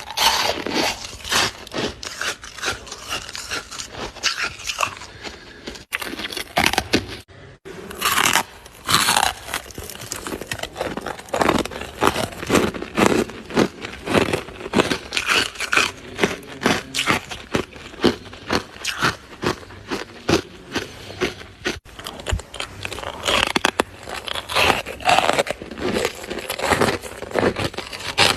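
Freezer frost being bitten and chewed close up: a dense run of crisp, crackly crunches, with a brief pause about seven seconds in.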